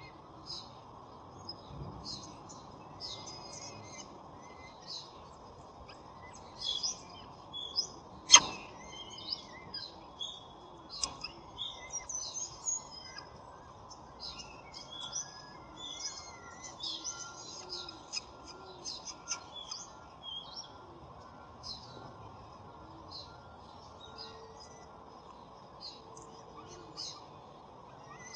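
Many short, high bird chirps and twitters throughout, over a steady low background hiss, with one sharp click about eight seconds in.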